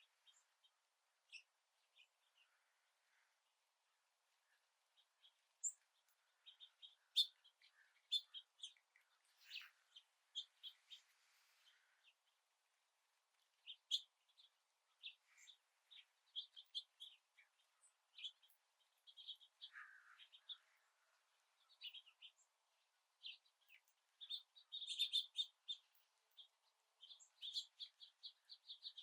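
Faint chirping of birds: many short, high call notes, scattered at first and growing busier over the last five seconds.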